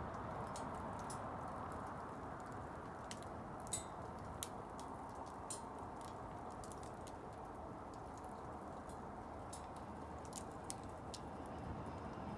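Wood bonfire crackling: irregular sharp pops and snaps over a steady low rush, with two louder pops about four seconds in.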